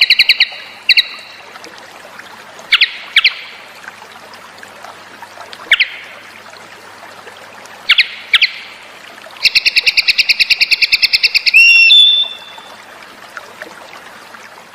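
Cucak cungkok bird calling: short, sharp chirps every second or two, then a fast rattling trill of about ten notes a second that lasts about two seconds and ends in a sliding note. A steady trickle of water runs underneath.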